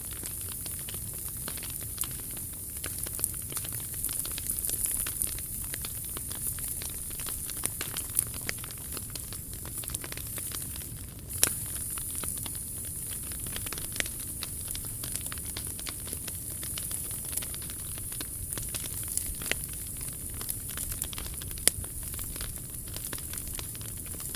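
Wood fire burning in a fire pit, a steady crackling hiss with sharp pops every few seconds; the loudest pops come about halfway through and near the end.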